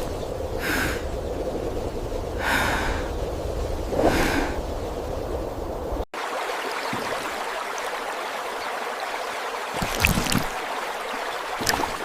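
Three short breath-like puffs, about a second and a half apart, then a sudden cut about six seconds in to the steady hiss of a flowing stream.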